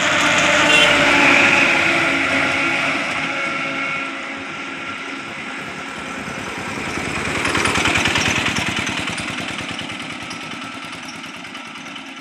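Engines of road vehicles passing close by on a highway, each swelling and fading. One goes by about a second in, and another, with a fast low engine beat, goes by around eight seconds in.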